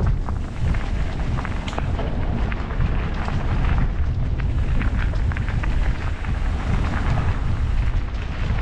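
Wind buffeting the microphone of a moving e-bike as a steady low rumble, with scattered small clicks and crackles from the tyres and bike over the road.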